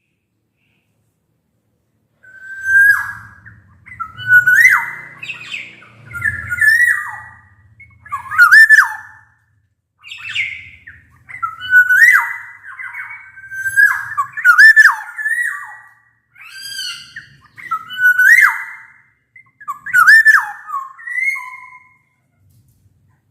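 Black-naped oriole singing: loud, fluty whistled phrases that slide up and down in pitch, mixed with harsher notes, repeated about once a second. The song starts about two seconds in.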